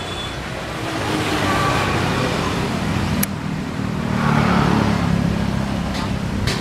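Passenger train running away along the track: a steady low rumble of wheels on rails that swells and eases as the coaches recede.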